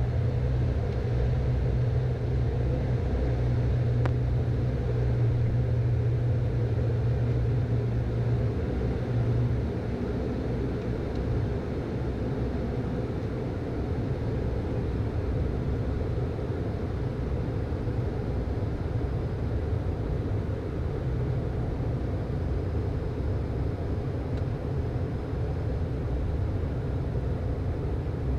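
Steady cockpit drone of a Beechcraft Premier I twin-turbofan business jet in flight on approach: engine and airflow noise with a low hum. The low hum and the overall level drop a little about ten seconds in.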